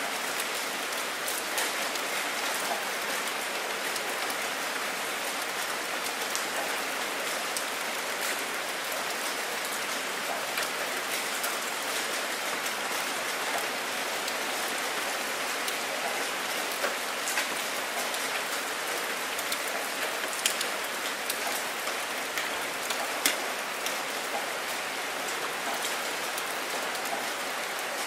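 Steady rain falling on open water: an even hiss of many drops, with a few louder single drop splats standing out, the sharpest about twenty seconds in.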